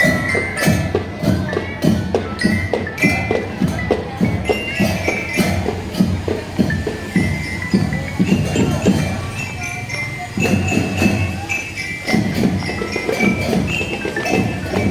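Marching drum band playing: drums beat a dense, steady rhythm while bell-like mallet instruments, such as a bell lyre or glockenspiel, carry a stepping high melody. The drums drop out briefly about ten seconds in, then resume.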